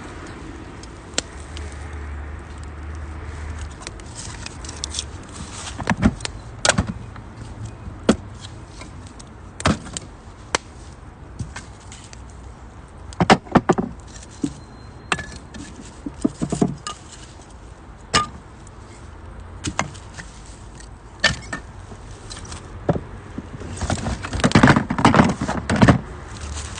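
Wood fire burning in a UNIFLAME Nature Stove Large, crackling with irregular sharp pops and snaps every second or few, and a dense run of crackles near the end.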